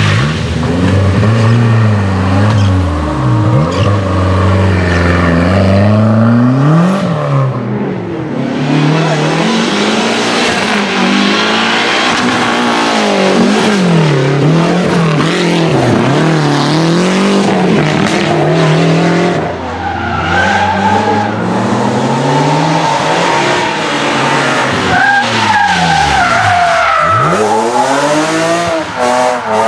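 Race car engines at full throttle, the revs climbing and dropping again and again through gear changes and lifts, with several sharp dips where the note falls away and picks up again.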